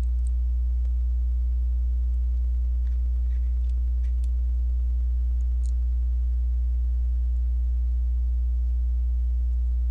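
Steady, loud low electrical mains hum, with a few faint small clicks of plastic Lego pieces being handled.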